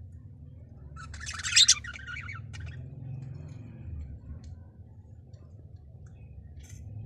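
Small birds chirping: a quick, loud burst of chirps about a second in, then a few faint, scattered chirps.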